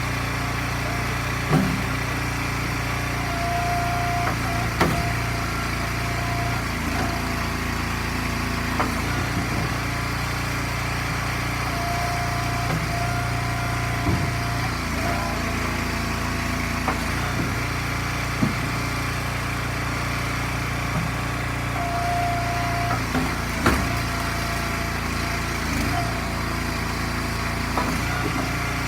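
Eastonmade hydraulic log splitter's gas engine running steadily, with a higher tone that comes and goes for a few seconds at a time as the ram works. Now and then comes a sharp knock of wood.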